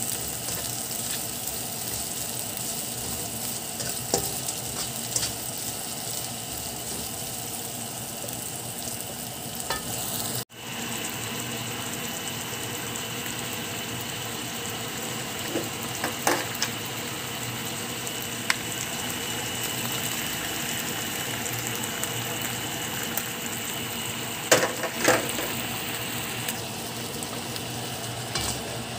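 Onions, peppers and ginger sizzling in oil in a nonstick frying pan while a spatula stirs them, with a short break about ten seconds in. Pork pieces are then sizzling and being stirred, with a few sharp spatula knocks against the pan, loudest near the end.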